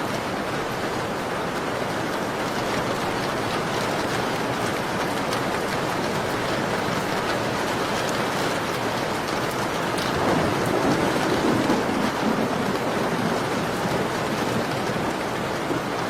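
Steady, dense rainfall with a few sharp crackles from a wood fire scattered through it. The sound swells louder for a couple of seconds about ten seconds in.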